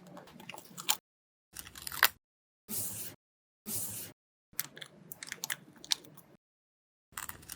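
Paper pieces being handled in short bursts with dead silence between: crinkling and crackling, sharp taps and clicks, and a couple of brief smooth swishes.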